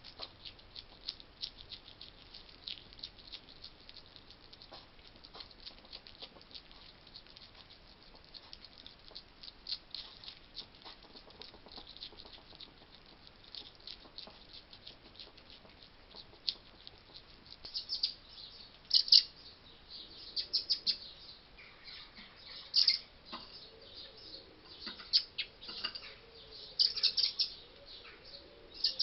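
Quick, fine crackling and crunching of a hedgehog chewing food. From a little over halfway in, birds chirp loudly and high in short bunches over it.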